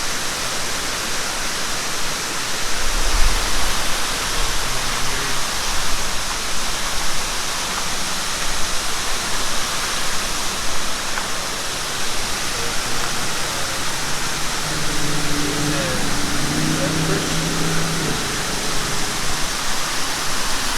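Steady rushing of running water, with a low thump about three seconds in and a faint low hum near the end.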